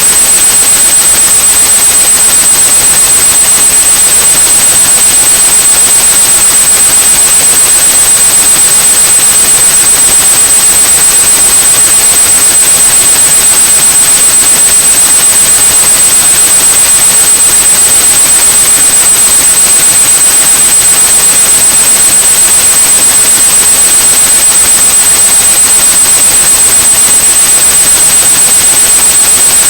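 Steady synthesized white noise hissing without change, with a continuous high pure tone at about 8100 Hz over it: a tinnitus-masking sound.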